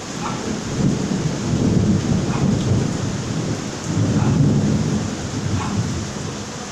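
Steady rain falling, with a low rumble that swells twice, about two and four seconds in.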